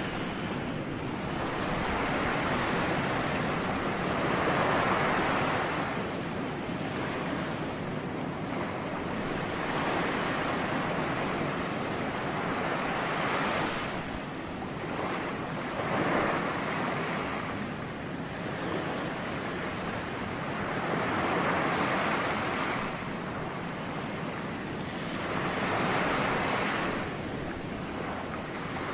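Ocean waves breaking on a shore, the surf swelling and ebbing in five slow surges about five to six seconds apart.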